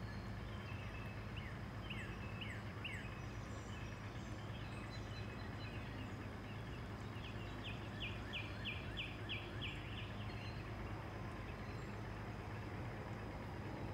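Small birds chirping over a steady low hum of background noise; a little past halfway, one bird gives a quick even run of about eight chirps, roughly three a second.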